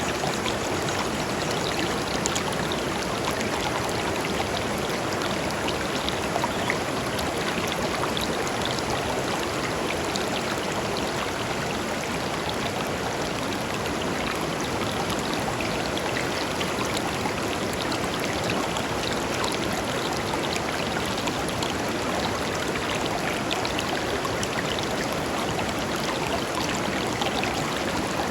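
Shallow river flowing and splashing over stones, a steady rushing babble with small trickles and drips.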